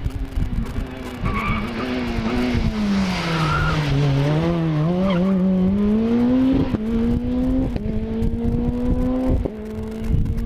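Rally car's engine on a special stage: the revs drop over the first few seconds as it slows into a corner, with tyres squealing, then climb steadily as it accelerates away, with about three brief breaks at the upshifts.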